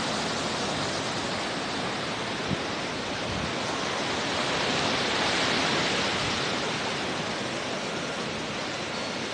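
Steady wash of sea surf on a beach, swelling a little about halfway through.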